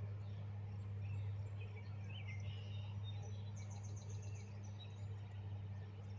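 A steady low hum, with faint bird chirps and twittering over it, including a quick run of high notes about three and a half seconds in; the birdsong fades out after about four and a half seconds.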